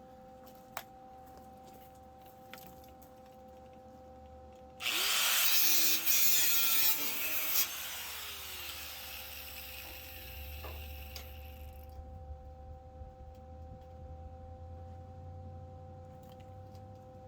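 A hand-held power tool runs loudly for about three seconds from a third of the way in, then winds down over the next few seconds. A faint steady hum sounds throughout.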